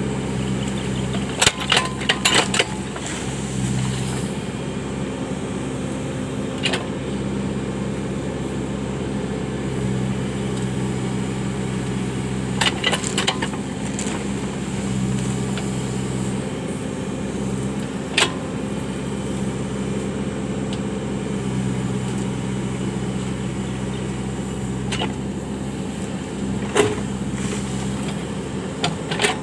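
Case 580 backhoe loader's diesel engine running steadily while it works, with a handful of short sharp knocks from the machine every few seconds, a cluster of them a couple of seconds in and again around thirteen seconds.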